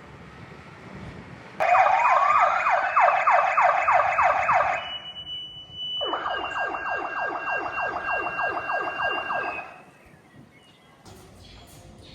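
Emergency vehicle's electronic siren being demonstrated. It starts about a second and a half in with a short rising wail that turns into a fast yelp of about four sweeps a second. About five seconds in it briefly holds a steady tone, then changes to a second, lower-reaching yelp pattern that cuts off near the ten-second mark.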